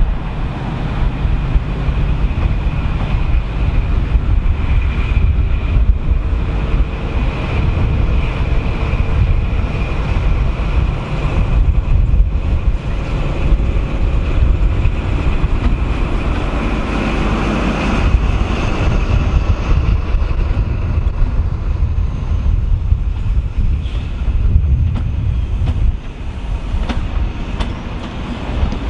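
InterCity 125 high-speed train's diesel power cars running on the line: a heavy low engine rumble with a steady high whine over it and some wheel noise on the rails, easing a little near the end.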